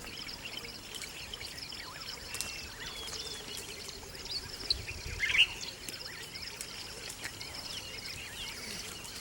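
Birds chirping and calling, with many short notes and quick sweeping whistles, over a rapid pulsing trill and a steady hiss of outdoor ambience. About five seconds in there is a louder burst of calls.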